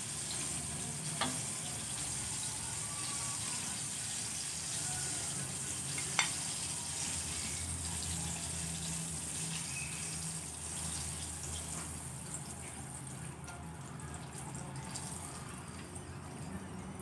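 Food frying in hot oil: a steady sizzle, with two light clicks, the hiss thinning out about 13 seconds in.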